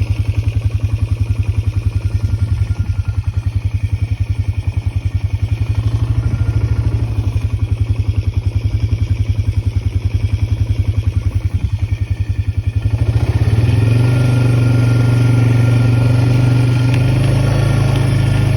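A vehicle engine idling close by with an even chugging pulse, then speeding up about two-thirds of the way through and holding a louder, steadier run.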